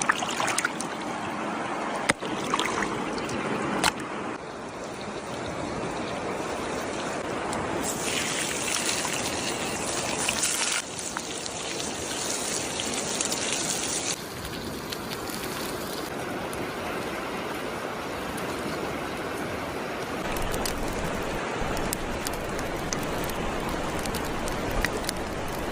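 Steady flow of water from a stream, trickling continuously, with a few light clicks near the start.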